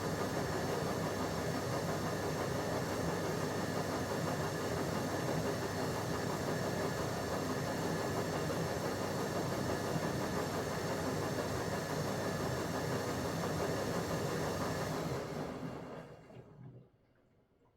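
Bauknecht WA PURE ST 14 FLD washing machine running its steam self-cleaning program: the drum turning with the steam generator blowing steam, a steady hissing run that winds down and stops about fifteen seconds in, as the drum pauses between turns.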